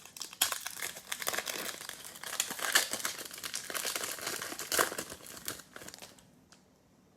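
Plastic trading-card pack wrapper crinkling as it is torn open and handled, a dense crackle that dies away about six seconds in.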